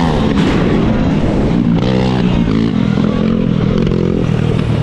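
Pit bike engine revving in short bursts: a rev climbs at the start, with further revs about two seconds in and near the end, over a steady low wind rumble on the microphone.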